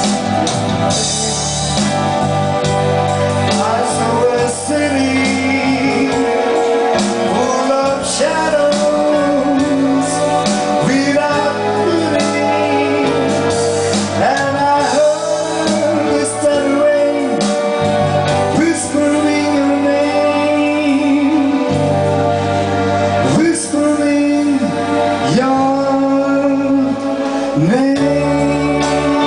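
Live band music: keyboard and guitar under a melody line that bends and slides between notes, without recognisable words.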